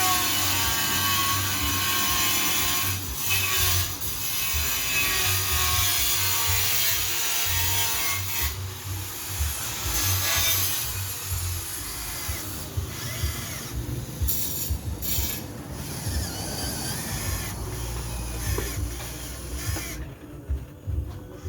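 Huina 1599 radio-controlled excavator's electric motors and gearboxes running, whirring with changing pitch as the arm and tracks move, with gritty scraping.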